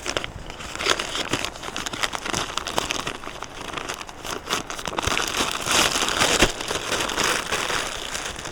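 Close, continuous crinkling and rustling of a crinkly material being handled, with many sharp little clicks and crackles, busiest in the latter half.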